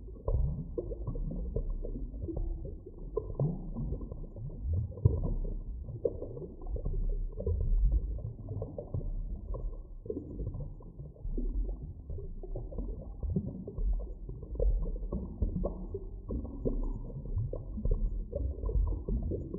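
Underwater ambience: a continuous deep rumble with irregular gurgles and small pops. It is muffled, with nothing heard above the low and middle range.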